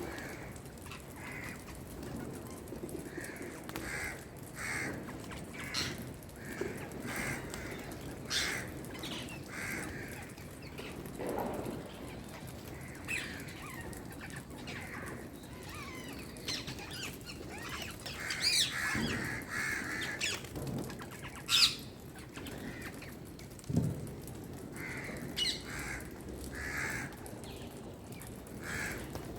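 Birds calling with short, harsh, repeated calls, several in a row, among Indian parakeets and crows. A few sharp firecracker bangs break in, the loudest about two-thirds of the way through.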